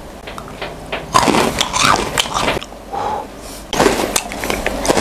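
Close-miked chewing of Milo Nuggets: a run of crisp crunches and mouth clicks in two spells.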